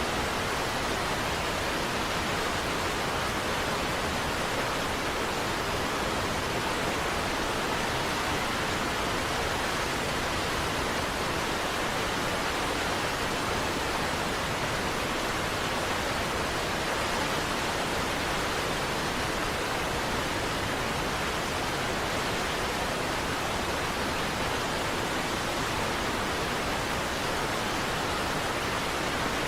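Niagara Falls: a steady, unbroken rush of falling water with no change in level.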